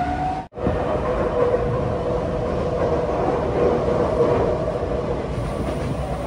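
A Tokyo Metro Hanzomon Line train running, heard from inside the car: a steady rumble of wheels on rail with a held motor whine. The sound cuts out for a moment about half a second in.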